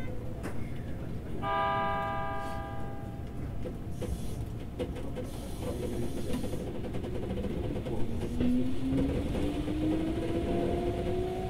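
Keikyu 2000 series electric train heard from on board: a steady running rumble from wheels and rails. About 1.5 s in, a short held tone sounds for about a second and a half. From about 8 s the traction motor whine rises steadily in pitch as the train accelerates.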